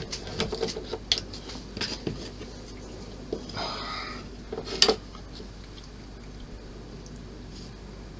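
Small plastic model-kit parts and tools handled on a workbench: scattered light clicks and taps, a brief rustle, and one sharper click about five seconds in.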